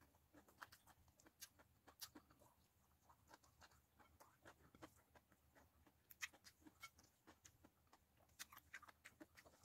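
Near silence with faint, scattered clicks of close-up chewing and fingers picking at fried fish on a plate, one sharper click about six seconds in.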